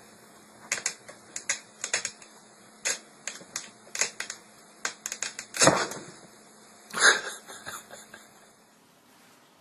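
A string of sharp, irregular clicks and taps, a few each second, with a heavier knock about halfway through and another loud click a second later, over a faint steady hum.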